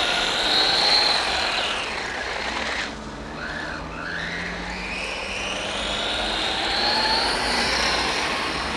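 HSP 1/10-scale RC monster truck's motor whining as the truck speeds up and slows down, rising to a high pitch about a second in, dropping off around three seconds, then climbing again and falling away near the end.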